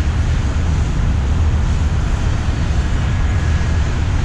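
Steady low rumble with an even hiss above it, no distinct event standing out.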